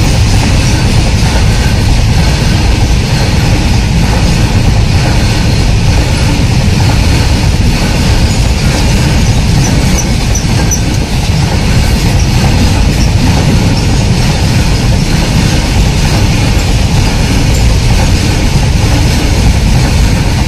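A freight train's rake of LPG tank wagons rolling past, wheels running on the rails in a steady, loud rumble.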